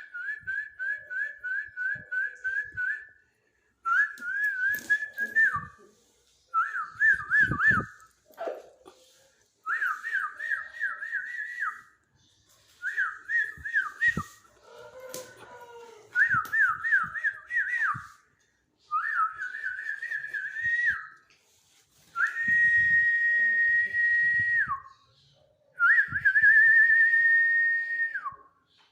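Whistling in repeated phrases of quick rising notes, about four a second, each phrase lasting a second or two with short gaps between. One longer held note comes near the end. Faint knocks sound underneath.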